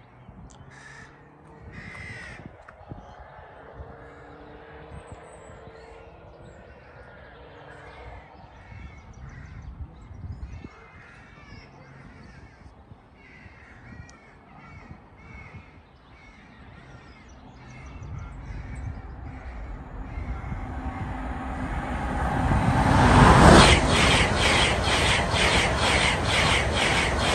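Birds calling over a quiet background. Then an electric express passenger train approaches, growing steadily louder from about two-thirds of the way in, and passes close by at speed near the end with a rapid run of regular wheel clacks.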